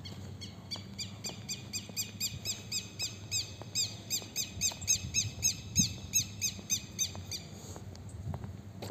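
A bird calling a long series of short, harsh repeated notes, about three a second, growing louder toward the middle and fading out near the end.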